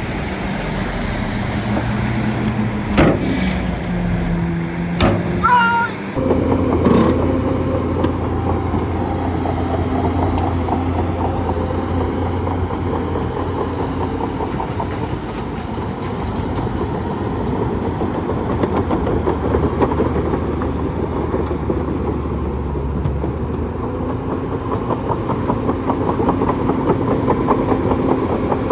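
A bulldozer's engine runs steadily. A few sharp knocks and a brief high squeak come in the first six seconds, then a continuous low drone.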